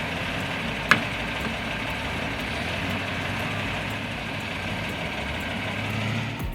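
Excavator's diesel engine running steadily, with a single sharp clank about a second in.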